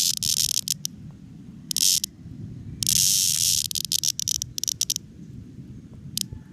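Cicada, seized by a cicada killer wasp, giving harsh buzzing distress calls in stuttering bursts: three longer bursts in the first few seconds, then several short ones.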